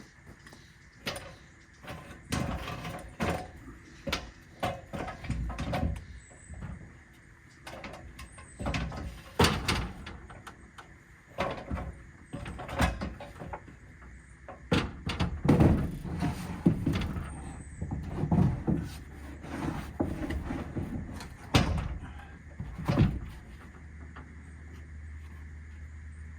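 Irregular knocks, clunks and scraping of hands-on building work, the strikes coming every second or so and loudest in the second half; a low steady hum comes in near the end.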